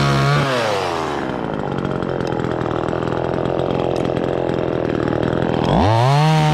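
Two-stroke chainsaw at high revs that drops to a pulsing idle about half a second in. It revs up again about a second before the end.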